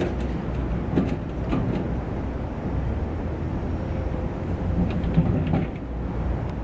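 Diesel engine of heavy construction machinery running steadily, with a few short metallic knocks about a second in and again near the end.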